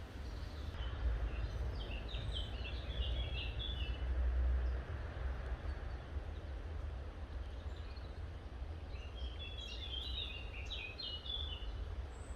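A songbird singing two short phrases of quick chirping notes, several seconds apart, over a steady low rumble.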